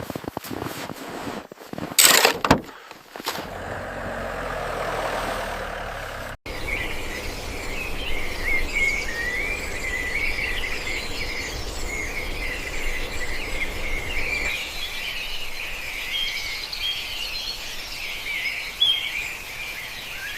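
Birds chirping, many small calls overlapping steadily, beginning after a sudden cut a few seconds in. Before that, a short loud rush of noise about two seconds in, then a low hum.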